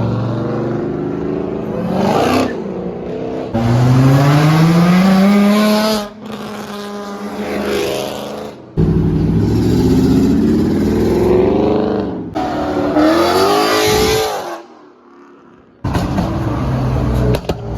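Car engines revving and accelerating hard in a series of short bursts, each rising steeply in pitch and broken off abruptly, with a brief quieter gap near the end.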